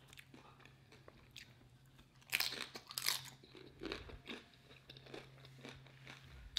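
Close-miked crunching and chewing of a tortilla chip loaded with burrito bowl toppings: two loud crunches a little over two seconds in, then softer chewing.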